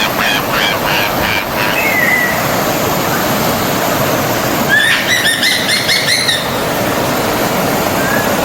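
Steady rush of a forest stream with birds singing over it: a run of repeated chirps that stops within the first two seconds, then a louder song phrase from about five to six and a half seconds in, and a few faint chirps near the end.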